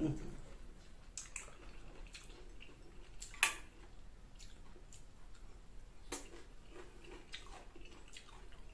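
Close-up chewing of green mango: a soft bite at the start, then wet mouth clicks and smacks scattered through, with one louder sharp click about three and a half seconds in.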